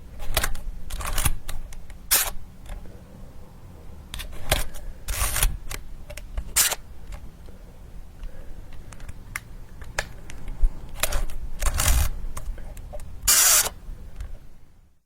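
Camera shutter firing repeatedly: a series of sharp mechanical clicks at uneven intervals, some single and some longer, doubled shutter-and-mirror bursts. It stops just before the end.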